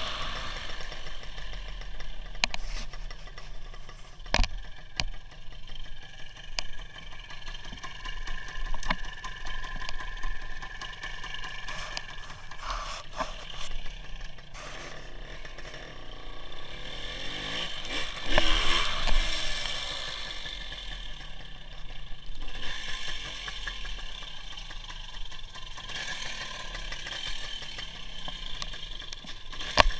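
WSK 175 motorcycle's single-cylinder two-stroke engine running while ridden, under steady road and rain noise, with scattered sharp clicks and rattles. The engine swells louder about two-thirds of the way through.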